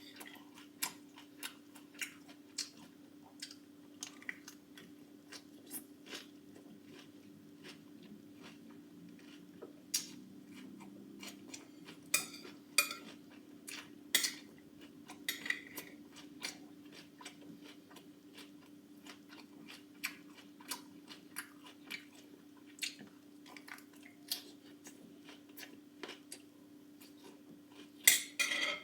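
Someone eating salad: a utensil clicking and scraping against a dish at irregular intervals, with chewing and crunching, and a louder clatter near the end. A faint steady low hum runs beneath.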